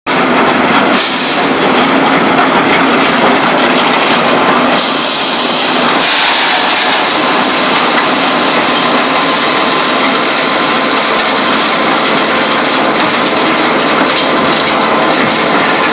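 Concrete batching plant machinery running: a loud, steady clatter and rumble of mixing and moving material. It cuts in suddenly at the start and shifts a little in texture a few times.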